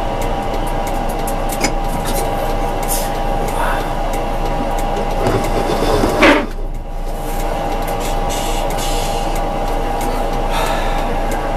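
Tram running, heard from the driver's cab: a steady mechanical hum with a constant whine, and one brief loud sweeping sound about six seconds in.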